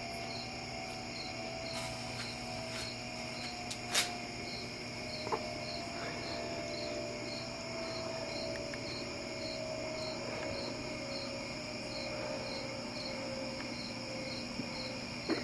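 Microwave oven running with grapes inside: a steady electrical hum with a slowly falling tone, and a single sharp click about four seconds in. A high, even chirping repeats about one and a half times a second throughout.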